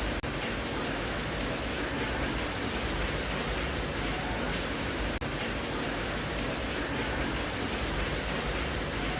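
Steady rain sound, an even hiss with no distinct drops standing out, with a brief dip in level about every five seconds.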